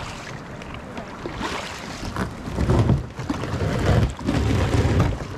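Kayak moving on open water, with wind buffeting the microphone in loud, low rumbles through the second half.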